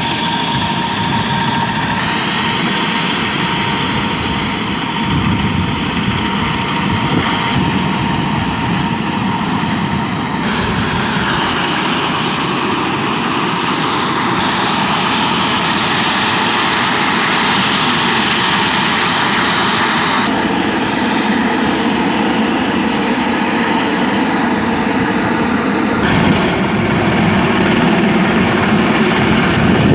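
Air ambulance helicopter running on the ground, its engine and rotor making a steady loud noise that grows a little louder near the end.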